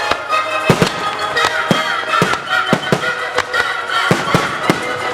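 Fireworks bursting in quick succession, sharp bangs about two to three a second, with music playing alongside the show.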